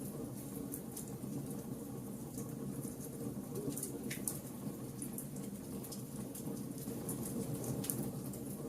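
Wood fire burning, with a steady low rush of flame and scattered sharp crackles and pops from the burning wood.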